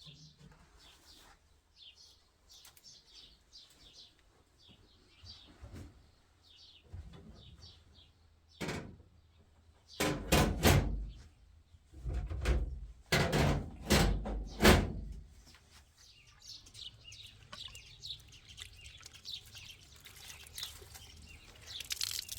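Small birds chirping, and partway through a run of loud knocks and clatter, as of something hard being handled and set down, about eight strokes over five seconds.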